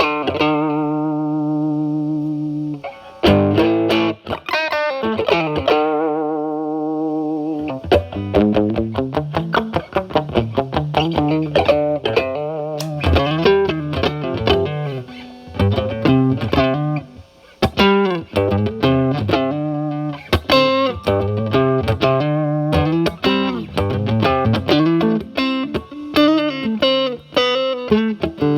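Electric guitar, a Fender Stratocaster with single-coil pickups, played through a Paul Cochrane Timmy overdrive pedal with its gain at 12 o'clock into the clean channel of a Marshall Valvestate amp, giving a mild overdrive. It opens with a held, ringing note, then a second held note bent in pitch, then quick single-note lead lines.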